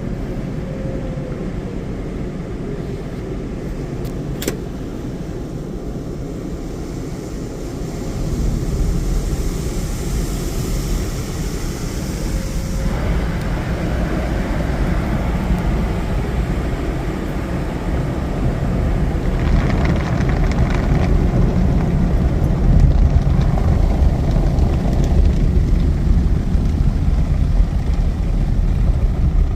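Car-wash tunnel equipment heard from inside a car on the conveyor of a mini Sonny's tunnel: a steady low rumble of water and wash machinery on the car. The rumble grows louder about eight seconds in, and a high hissing spray lasts several seconds in the first half.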